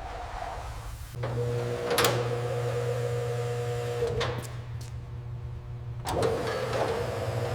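A small electric motor running with a steady hum, interrupted by a few sharp clicks or breaks.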